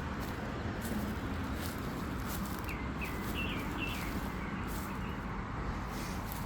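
Footsteps and rustling through grass, with a small bird giving four short chirps about three seconds in.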